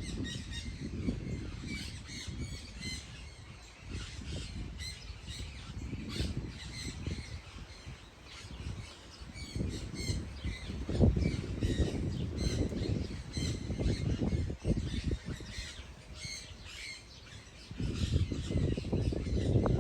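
Many birds chirping and squawking in short, quick calls, with a low rumbling noise that comes and goes underneath.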